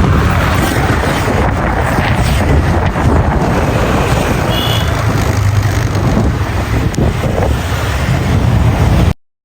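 Wind buffeting the microphone, a loud steady rumble heavy in the lows, with a brief high chirp about halfway through. It cuts off suddenly near the end.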